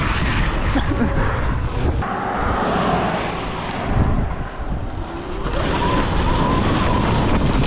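Wind buffeting the microphone while a Sur-Ron electric dirt bike is ridden, with the motor's faint whine climbing in pitch about two-thirds of the way through and then holding steady near the end.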